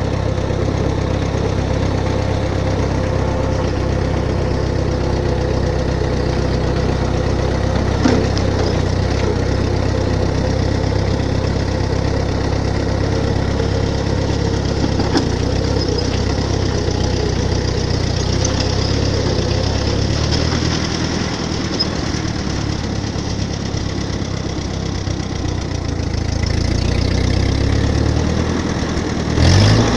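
Ford 8N tractor's four-cylinder flathead engine running steadily as the tractor drives along. The engine note eases off a little about two-thirds through and picks up again near the end.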